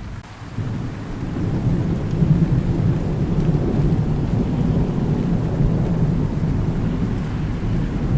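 Thunder rumbling low, swelling up about a second in and rolling on steadily, over continuous rain.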